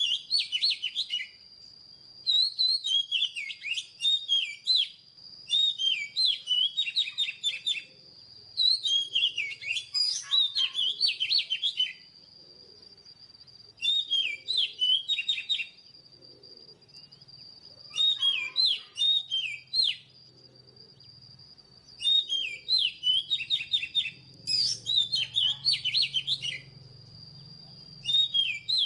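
Oriental magpie-robin singing: about nine phrases of rich whistles and fast chattering notes, each a couple of seconds long, with short pauses between them.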